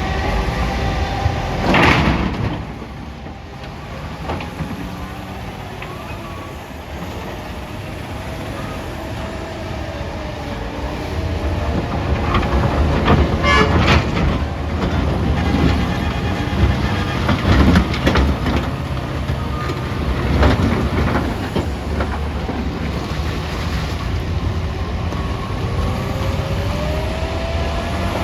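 Caterpillar 966D wheel loader's diesel engine working and revving, with a heavy crash about two seconds in and a run of loud knocks and clatter later on as large rocks are loaded into a steel dump-truck bed.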